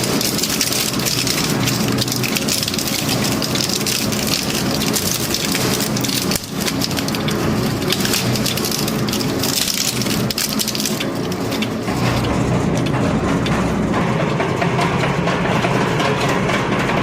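Industrial metal shredder running: a steady motor hum under dense crackling and crunching as scrap metal is torn apart. About twelve seconds in the crackle thins and a deeper rumble comes up.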